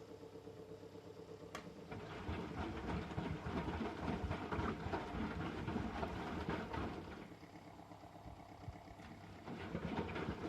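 M Eurotech EW 450 top-loading washing machine running with its drum turning, with a sharp click about one and a half seconds in. It goes quieter for about two seconds after the middle, then picks up again.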